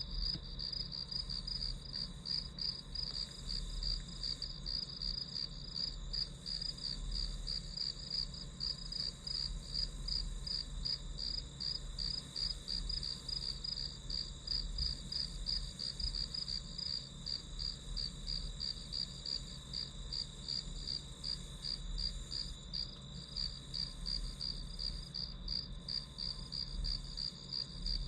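Crickets chirping: a high-pitched, steady, evenly pulsed chirp, about three pulses a second, over a faint low hum.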